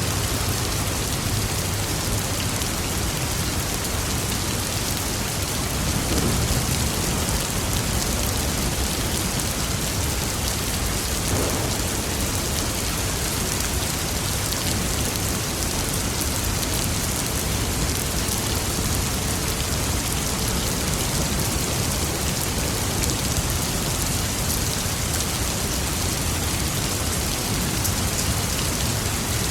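Steady rain pattering on surfaces, with a low swell of distant thunder about six seconds in.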